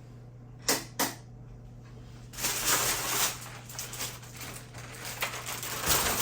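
Two sharp clicks about a second in, then uneven rustling and handling of grocery bags and packaging as shopping is unpacked.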